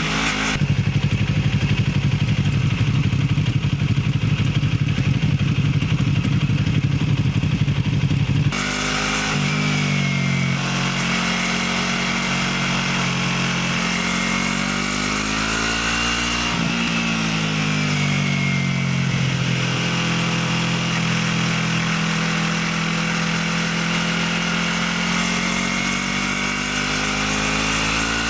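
Motorcycle engine running through its stock exhaust while riding. It is louder and rougher for the first eight seconds or so, then the revs rise and fall repeatedly.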